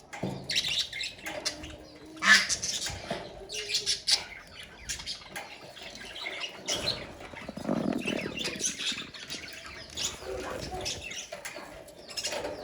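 A colony of budgerigars chattering and squawking, with many short calls overlapping one another throughout.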